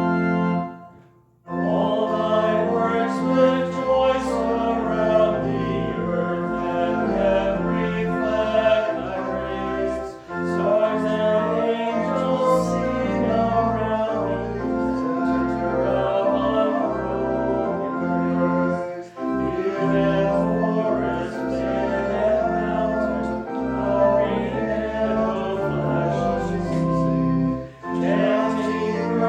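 Church organ holds a chord that stops about a second in; after a short pause, voices sing a hymn with organ accompaniment, line by line, with brief breaks between the lines about every nine seconds.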